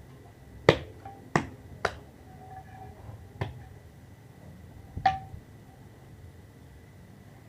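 Five sharp clicks or taps of hard objects, the first the loudest, some leaving a brief ringing note.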